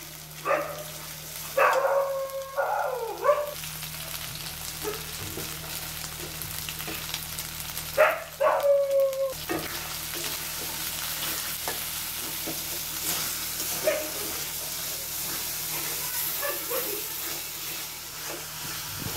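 Ground spice paste frying in hot oil in a wok, sizzling steadily as it is stirred with a spatula, the sizzle a little louder in the second half. Two short vocal sounds stand out about two and eight seconds in.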